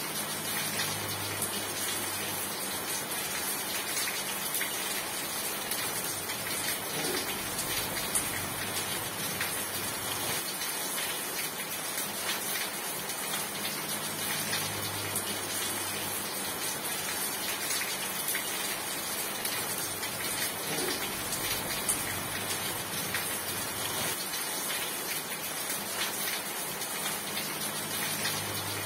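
Steady rain falling, an even unbroken hiss, with a faint low hum that swells and fades about every fourteen seconds.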